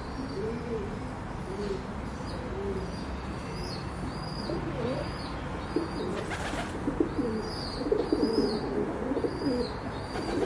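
A group of birds calling over a steady background hiss: many low calls overlapping, growing busier about halfway through, with short high chirps repeating about twice a second.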